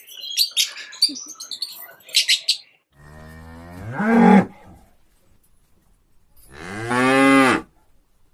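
Bird chirping for the first two seconds or so, then a cow mooing twice: a long moo that grows louder and stops about four and a half seconds in, and a second moo near the end.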